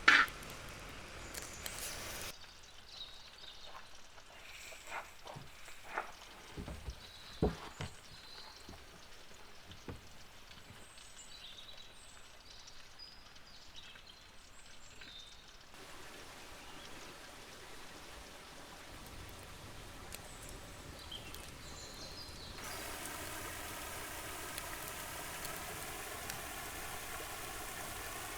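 Outdoor ambience in several short takes: a few scattered knocks and faint high bird chirps, then a steady rush of flowing water from a stream near the end.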